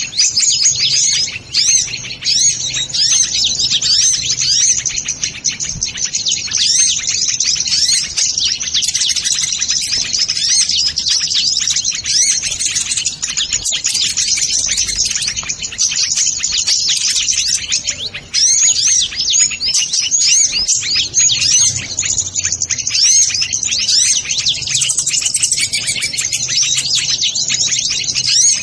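Dense, continuous high-pitched chirping and twittering of small birds, many quick overlapping calls with no break.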